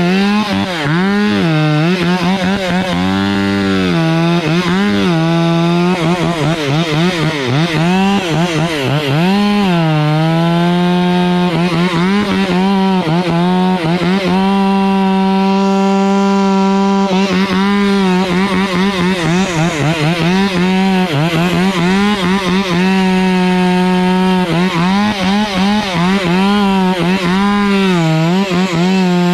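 Stihl chainsaw cutting the trunk of a Canary Island date palm. Its engine speed rises and falls repeatedly, holds steady for several seconds around the middle, then swings up and down again.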